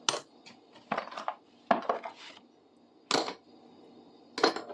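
Old metal hand tools clinking and clanking as they are picked out of a bucket and set down, about five separate clanks spread roughly a second apart.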